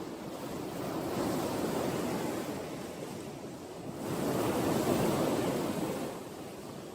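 Sea waves washing onto a shore, the surf swelling twice and easing back between.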